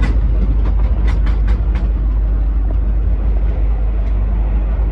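Steam-hauled passenger train running on rails: a heavy steady rumble with a quick run of sharp clicks in the first two seconds and a few more later.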